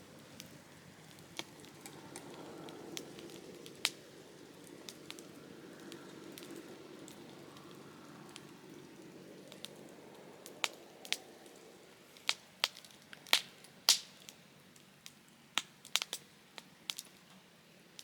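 Softwood campfire burning in a Picogrill 398 fire pit, its wood giving sharp crackles and pops that come more often and louder in the second half. A low steady rush of the fire runs under the crackles in the first half.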